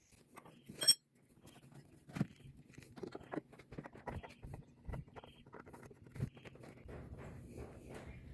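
Faint handling noises of a new spin-on oil filter being unwrapped and prepared: scattered light clicks and rustling of its plastic wrapper, with one sharper click about a second in.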